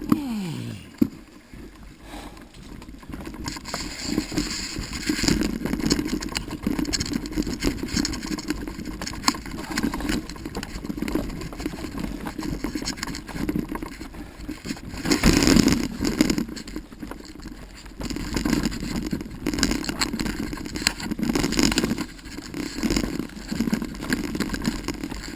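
Footsteps, crunching and rattling as a person walks a bicycle over a rooty dirt trail, with a louder rush about halfway through.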